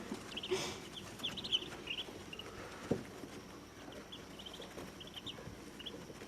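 Day-old Muscovy ducklings peeping: short, faint, high peeps in little clusters throughout, with one soft knock about three seconds in.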